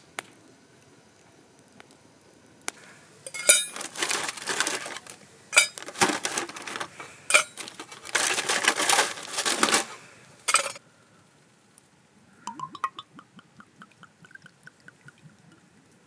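Dishes and cookware clattering and clinking for several seconds. Then, from a little after the middle, liquid is poured into a container, its pitch rising as it fills.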